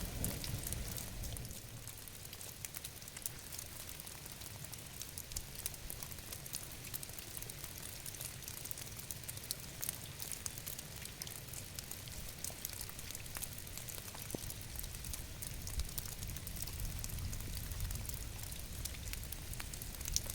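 Steady rain, many fine drops ticking sharply over an even hiss, with a low steady rumble underneath.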